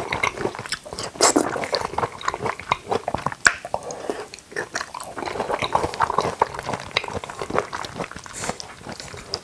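A person chewing jackfruit close to the microphone: wet, sticky smacking and chewing with many small clicks.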